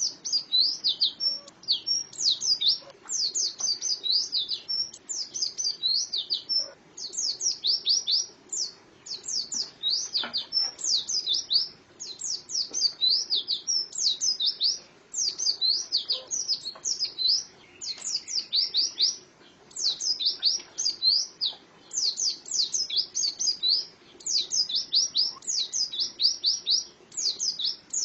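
Female pleci (white-eye) singing: rapid runs of high, thin chirps, each a quick sliding note, in bursts of a second or two with short pauses between them.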